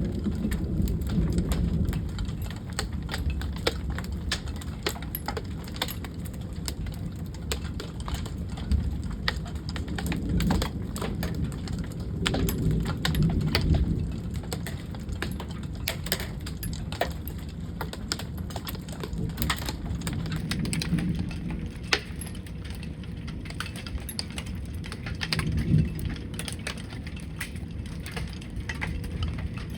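Rain pattering close to the microphone in many sharp drop-like clicks, over a steady low rumble that swells several times.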